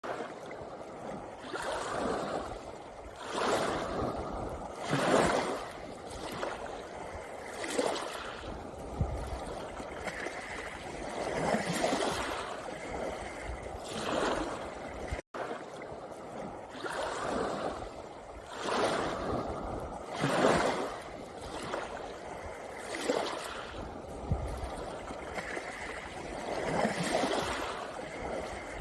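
Small sea waves washing in and out over a pebble beach, the wash swelling and falling every two or three seconds. The sound cuts out for an instant about halfway through.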